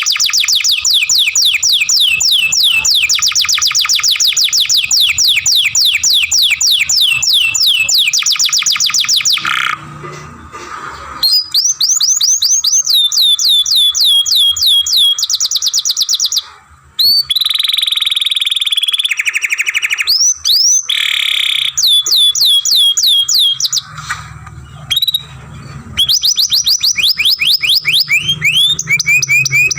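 Young canary singing long rolling trills: rapid runs of quick, falling whistled notes, several phrases broken by short pauses, with one held steady whistle a little past halfway.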